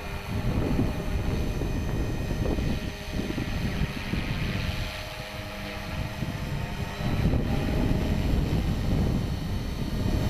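Gusty wind buffeting the microphone over the steady whine of a 450-size electric RC helicopter, the HK450 Pro, in flight. The wind eases off for a few seconds in the middle.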